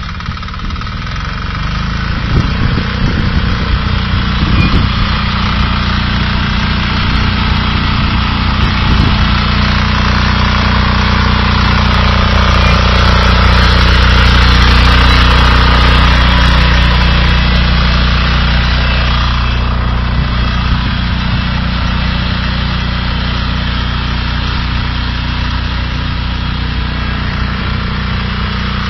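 BCS 740 two-wheel walk-behind tractor running steadily while working a Ground Blaster soil-ridging attachment. The engine note grows louder toward the middle and then eases back.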